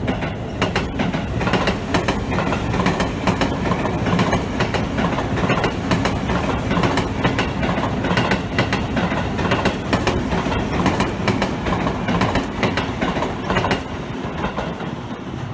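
Seibu 20000 series electric commuter train running past close by, its wheels clattering over the rail joints in a fast run of clicks. The sound eases near the end as the last cars go by.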